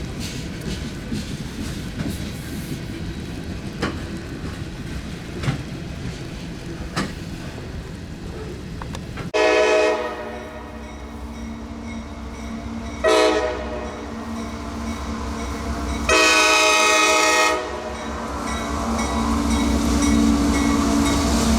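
An approaching train's locomotive horn sounds three blasts, long, short, long, each a chord of several notes. Between and after the blasts the engine hum and rail rumble grow louder as the train draws near.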